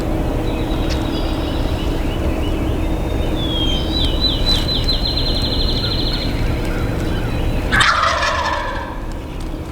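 Wild turkey gobbling once, loud and sudden, about eight seconds in, with a rattling call that falls in pitch. A high, rapid trill from a smaller bird comes in the middle, over a steady low hum.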